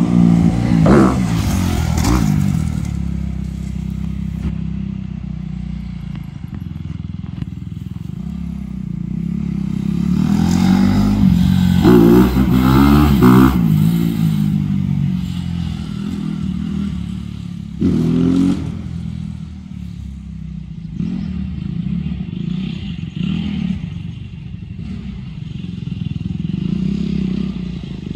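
Dirt bike engine running and revving as it rides around, the pitch rising and falling, with bursts of hard revving near the start, about halfway through and again a few seconds later.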